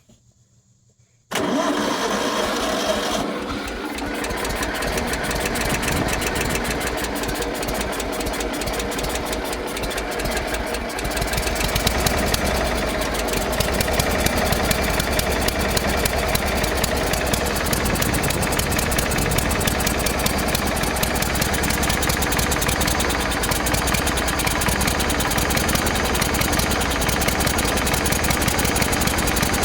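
Old Toro riding lawn mower's engine running steady and really loud at a set throttle, just brought back to life after sitting dead. It cuts in abruptly about a second in and grows a little louder and deeper about eleven seconds in.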